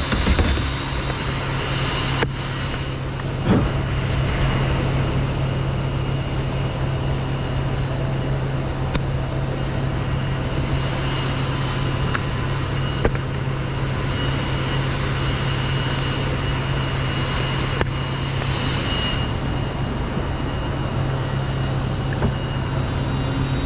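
An engine running steadily at a constant speed, with a few brief knocks over it.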